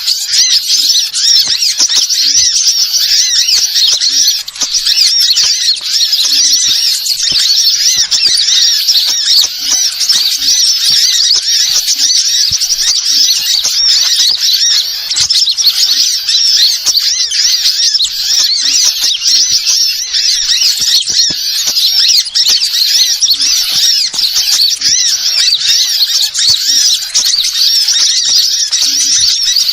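Many small birds chattering and twittering at once: a dense, unbroken mass of high-pitched chirps, the kind of flock-call recording played as a bird lure.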